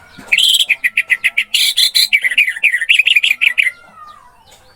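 Orange-headed thrush singing: a loud, fast run of sharp repeated chattering notes lasting about three seconds, ending in a faint falling whistle.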